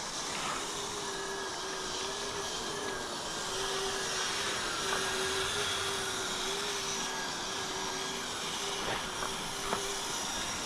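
Kyosho Blizzard RC snow tractor's dual Traxxas 380 electric motors running steadily with a whine and hiss as its metal tracks drive through snow.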